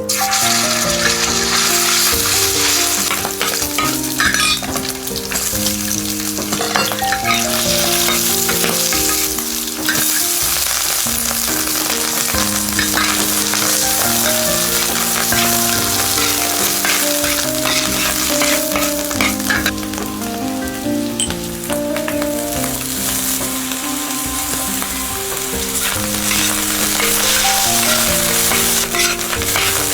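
Food frying and sizzling in a hot pan while being stirred, a steady sizzle with scraping, over light background music.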